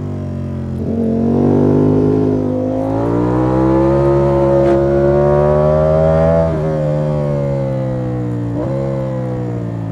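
Ducati Panigale V4 S's 1103 cc V4 engine heard from on board. Its pitch rises from about a second in and climbs slowly under load, then drops sharply about six and a half seconds in and keeps falling as the bike slows, with a brief blip near the end.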